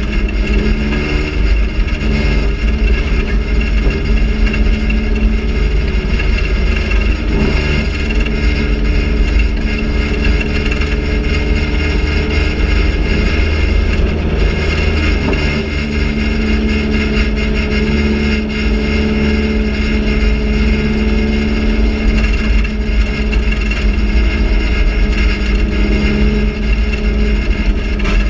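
GM Quad 4 four-cylinder race engine running hard at racing revs, heard from inside the cockpit with a raspy note. Its pitch drops and climbs again every several seconds as the driver lifts and gets back on the throttle through the turns of the oval.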